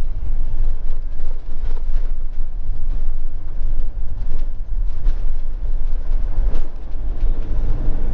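Motorhome driving on the road, heard from inside the cab: a steady low rumble of engine and tyres, with a few faint knocks.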